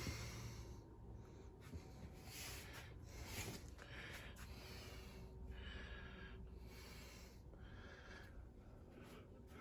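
Faint breathing close to the microphone, a few slow breaths, over a low steady hum.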